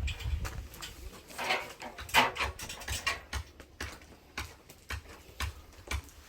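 Scattered light knocks and clatter, with one sharper, louder knock about two seconds in.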